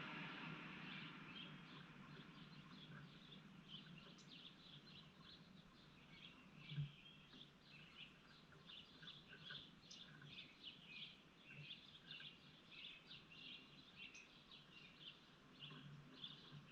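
Faint, quick short chirps from yard birds, many overlapping, getting busier after the first couple of seconds. A single brief thump about seven seconds in.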